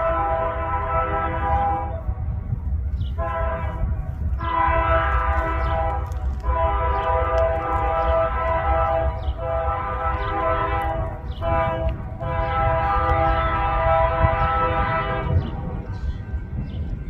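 Freight locomotive's Nathan K3HA three-chime air horn sounding a series of blasts, mostly long with a few short breaks between them, and stopping about three-quarters of the way through. The low rumble of the train runs underneath.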